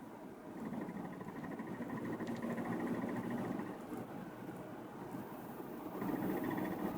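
BMW E60 5 Series on the move: steady road and engine noise with a fast metallic rattle that comes in about a second in, stops after about three and a half seconds, and returns near the end. The rattle is speed-dependent and heard mostly when accelerating, and the owner suspects it comes from the rear underbody.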